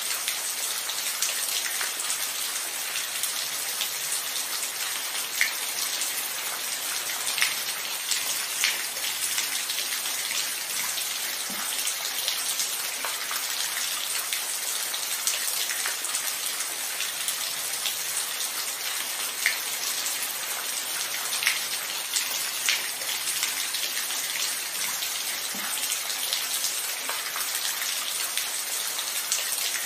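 Steady rainfall, a continuous hiss with individual raindrops ticking sharply on a hard surface every second or two.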